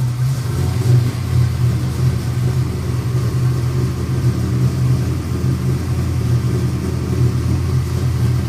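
Carbureted Chevrolet V8 of a Camaro Z28 idling with a deep, steady rumble.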